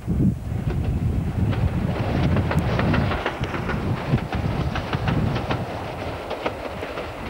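Diesel locomotives hauling a ballast train pass close by. There is a low engine rumble, and the wheels clatter rapidly over the rail joints, densest in the middle of the pass.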